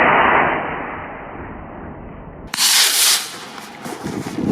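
Model rocket motor roaring just after liftoff, the sound fading over about two seconds as the rocket climbs away. About two and a half seconds in there is a sudden, short, loud rush of noise lasting about half a second.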